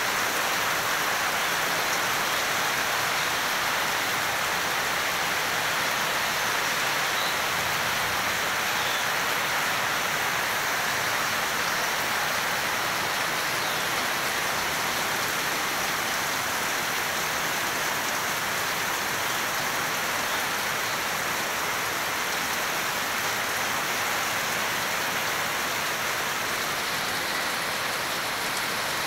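Heavy rain falling steadily onto broad leaves and the netting of an aviary, an even unbroken wash of sound.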